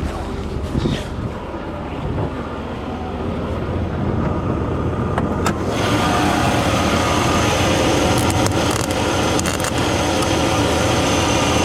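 A vehicle engine running steadily. About six seconds in it gets louder, with added hiss and rattle.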